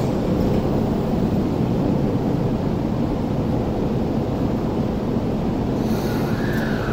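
Steady hum and rumble of an electric commuter train standing at the platform with its doors open. Near the end a faint tone rises and then falls.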